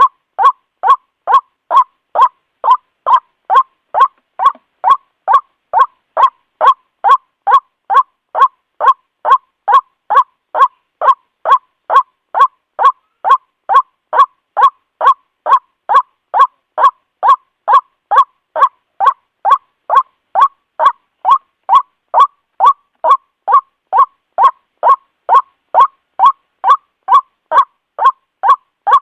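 White-breasted waterhen giving its repeated call, a loud, short, even note about twice a second, on and on without a break.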